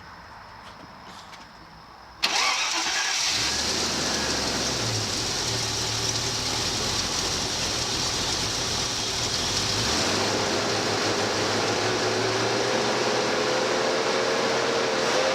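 Land Rover Discovery engine starting up suddenly about two seconds in, then running steadily, freshly pressure-washed. The owner says it is firing on most cylinders, a slight misfire. A faint whine slowly rises in pitch over the last few seconds.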